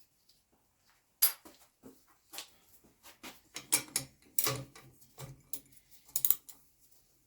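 Irregular metallic clicks and clanks of hand tools working on bicycle parts, with sharper knocks about a second in, about four and a half seconds in and about six seconds in.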